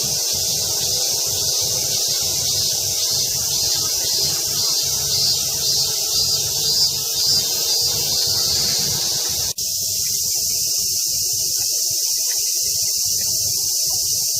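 Chorus of summer cicadas shrilling steadily over a low outdoor rumble, with a pulsing rhythm in the first half. About two-thirds of the way through, the sound cuts out for a moment and resumes.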